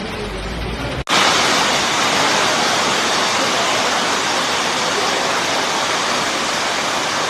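A low rumble, then, about a second in, a loud steady rushing noise starts abruptly and holds evenly, like a torrent of water.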